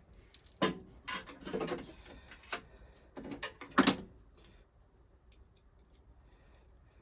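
Small metal parts and tools being handled in a workshop: a handful of sharp clinks and knocks over the first four seconds, the loudest one near the end of that run.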